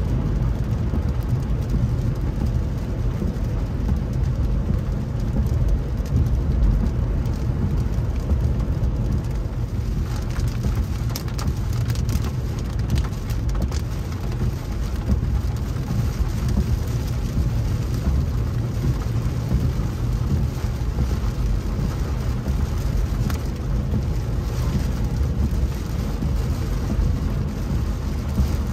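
Rain falling on a moving car, heard from inside the cabin over a steady low rumble of tyres on the wet road and the engine, with a few sharper ticks around the middle.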